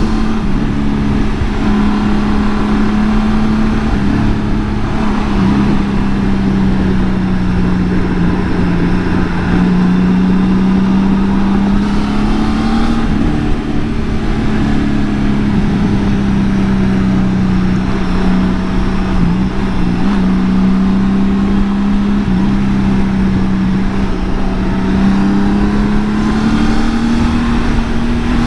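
2018 Honda Gold Wing's flat-six engine running at highway speed: a steady hum that sags and lifts a little in pitch and climbs slightly near the end, over wind and road noise.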